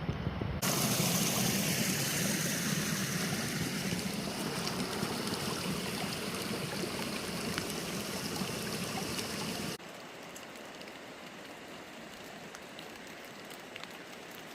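Creek water rushing: a loud, even hiss that starts suddenly just after the start. About ten seconds in, it drops abruptly to a quieter background with scattered light ticks.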